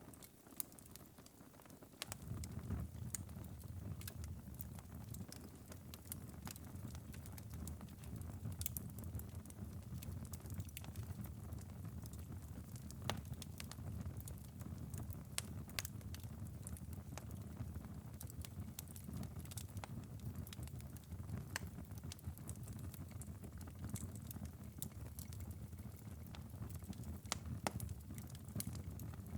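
Wood fire's ember bed in a fireplace crackling: scattered sharp pops and snaps over a low steady rumble that comes in about two seconds in.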